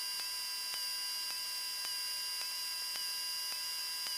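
Steady electrical hum and whine on the Cessna 172's intercom and radio audio line between transmissions, with faint regular ticks about twice a second.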